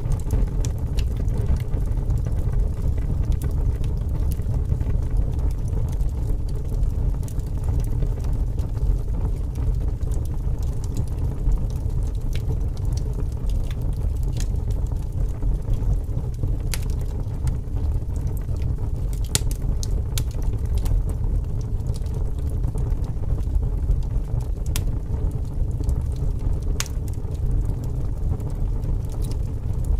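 Wood fire burning, with scattered sharp crackles and pops over a steady low rumble of strong wind.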